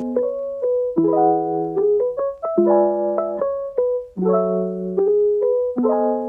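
Background piano music, a gentle melody over chords.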